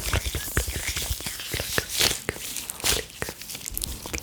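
Close-miked ASMR of gloves being handled and rubbed together, combined with mouth sounds: a dense run of short sharp clicks and pops, with brief rustling swishes about two and three seconds in.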